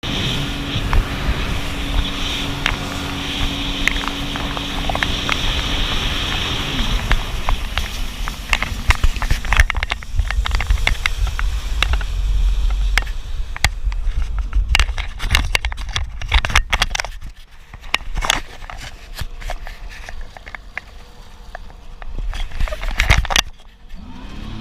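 Jet ski engine running steadily, its pitch falling about seven seconds in as it throttles back. It is followed by low rumbling noise with many sharp crackles and pops.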